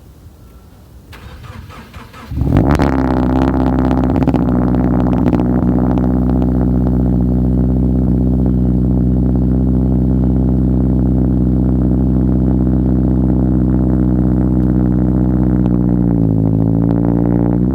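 2015 Subaru BRZ's 2.0-litre flat-four boxer engine cold-starting through a Buddy Club Spec II exhaust: brief starter cranking, then it catches about two seconds in and settles into a steady cold idle. The idle note drops a little about sixteen seconds in and rises again near the end.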